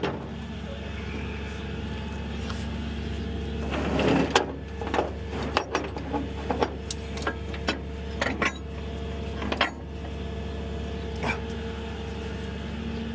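A vehicle engine idling steadily, with a run of sharp clanks and clicks through the middle.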